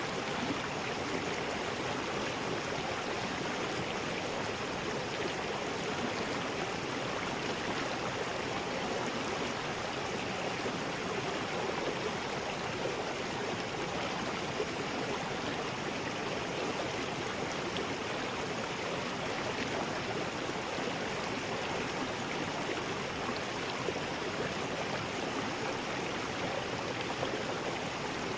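River rapids: fast water rushing over rocks in a steady, unbroken rush.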